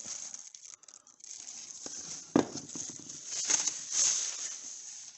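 Parts and packaging of a motorized bicycle engine kit being handled, with irregular rustling and one sharp knock about two and a half seconds in.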